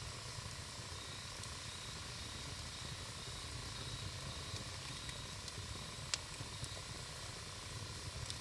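Wood campfire burning with a steady hiss and low rumble, broken by a few sharp crackles and pops, the loudest about six seconds in.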